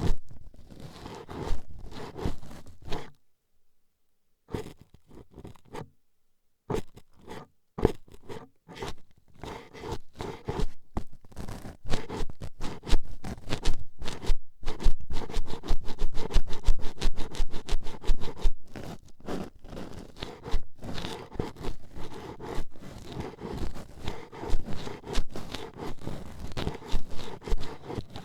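Toothpicks jabbing and scraping against an ASMR ear microphone in quick, scratchy strokes. They stop briefly twice early on, then run fast and almost without a break.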